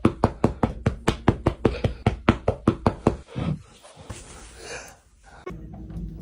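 A quick, even run of knocks, about six a second for some three seconds, then tapering off into a few softer thuds.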